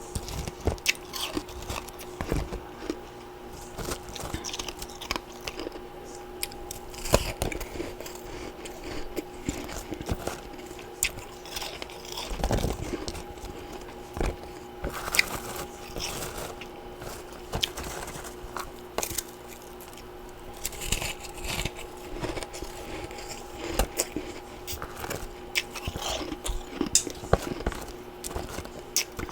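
Close-miked chewing of freezer frost and ice chunks: a steady run of bites and crisp crunches, with a faint steady hum underneath.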